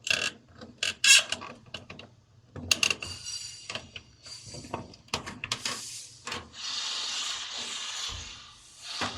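Handling of a boat seat's storage compartment: scattered knocks and clicks as the lid is worked, then a steady rubbing scrape lasting about two seconds near the end.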